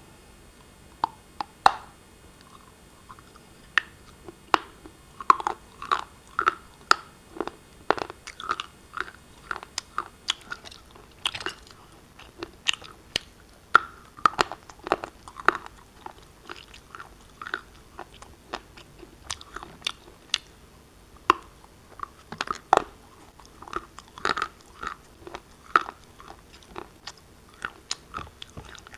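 Close-up crunching of black shale pieces being bitten and chewed: many sharp, irregular crunches, several a second, with short pauses between bites.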